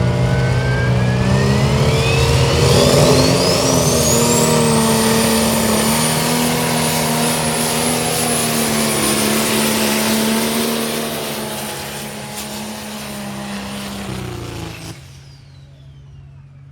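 A tractor-pull machine's engine running hard under a high whine that climbs steeply in pitch over the first few seconds, then holds. The engine sound eases away and drops off sharply near the end.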